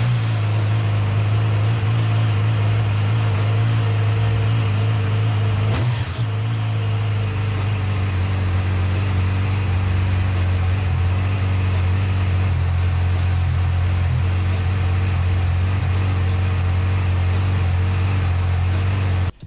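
2020 Yamaha R6's 600cc inline-four engine idling steadily just after its first start, with a brief dip about six seconds in; it cuts off suddenly near the end.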